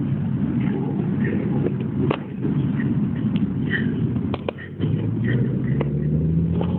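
Street traffic: a steady low rumble of vehicle engines with scattered clicks and knocks, and one engine rising slowly in pitch over the last couple of seconds.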